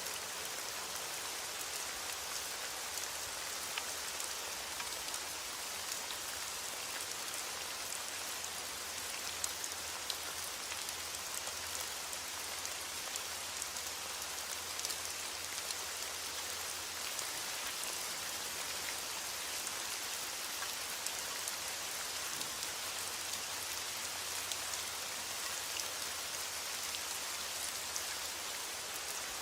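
Steady rain falling: an even hiss of rain with many small, sharp drop ticks scattered through it.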